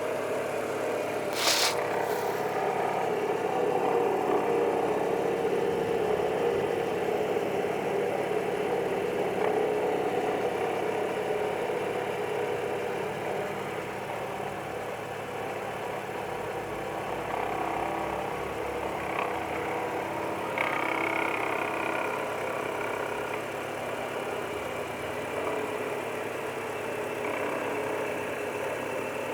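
A Ford Zetec Rocam 1.6 8V engine running steadily with a knocking noise that sounds as if it comes from inside the block. The owner traced it to a worn pulley in the belt drive on the left side of the engine. There is a brief sharp click about a second and a half in.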